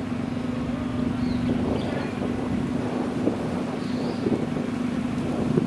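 An old car's engine running steadily at idle, a constant hum.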